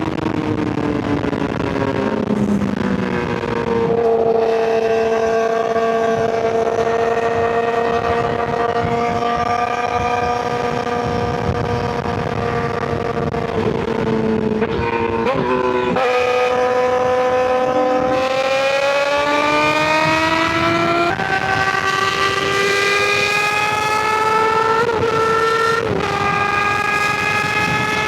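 2023 Suzuki GSX-R600's inline-four engine running through an M4 slip-on exhaust. Its note holds at mid revs for long stretches, drifts slowly up and down, and jumps suddenly in pitch several times.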